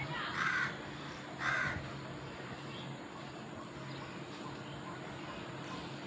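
Parrot giving two short, harsh squawks in the first two seconds, over a steady low hum.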